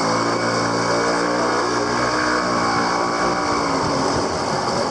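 Motorcycle engine running steadily under way, its pitch easing down slightly past the middle.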